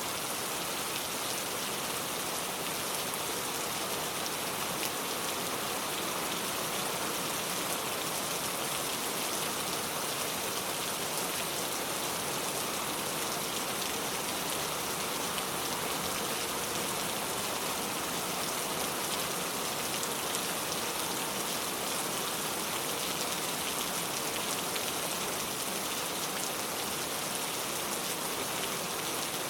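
Steady rain falling, an even hiss of countless drops striking surfaces, holding at the same level throughout.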